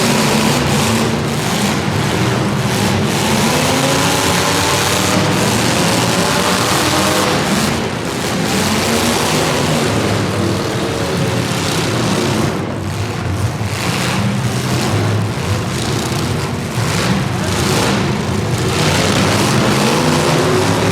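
Racing engines running and revving continuously, their pitch rising and falling.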